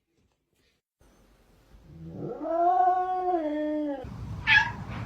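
A domestic cat's long, drawn-out yowl that rises and then falls in pitch over about two seconds. About half a second after it ends, over a background hiss, comes a short, loud, high-pitched sound.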